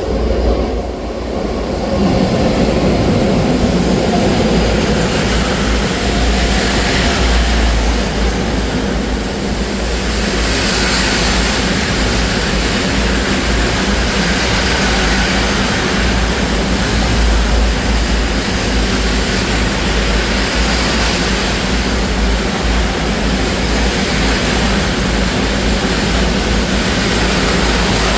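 Express train passing at high speed: a loud, steady rush and low rumble that jumps up about two seconds in and keeps on.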